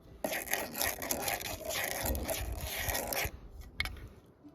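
Gritty scraping of stony dirt being dug out of a small hole in search of a metal-detector target, lasting about three seconds, followed by a couple of short clicks.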